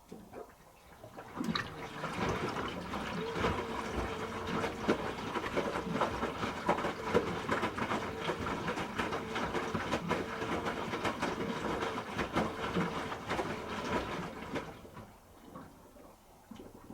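Hoover H-Wash 300 Plus washing machine during its rinse: water rushing and splashing in the drum, with many small splashes and clicks. It starts about half a second in, builds over the first couple of seconds, runs steadily, and dies away about two seconds before the end.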